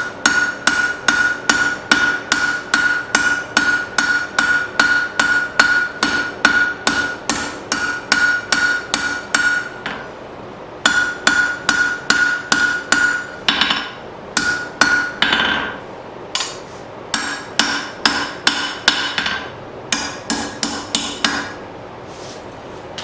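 Hand hammer striking hot steel round stock on an anvil, steady blows about three a second, each with a bright metallic ring, while drawing out a taper. The blows break off about ten seconds in, then come in shorter runs with brief pauses and stop near the end.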